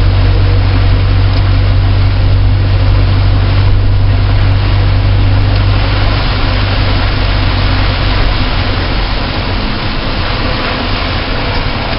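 Car engine running steadily under heavy tyre and wind noise on a wet race track. The low engine drone fades about eight to nine seconds in, as if the car comes off the throttle.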